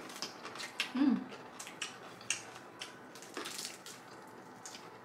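Eating sounds: cutlery clicking against dishes and crunchy chewing, many short clicks, with a brief voiced hum about a second in.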